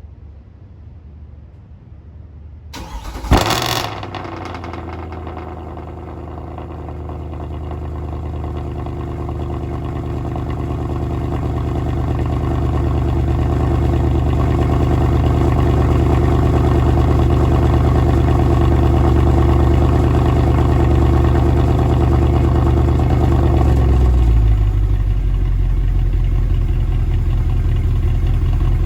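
Mercedes-AMG C63 (W204) 6.2-litre naturally aspirated V8 cold-starting. About three seconds in it fires with a sudden loud flare through the exhaust, then runs at a steady fast cold idle. About 24 seconds in the sound drops and turns deeper as the idle settles.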